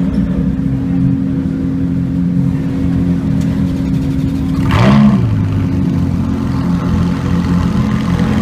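Supercar engine idling, blipped once about halfway through so the pitch jumps up and falls straight back.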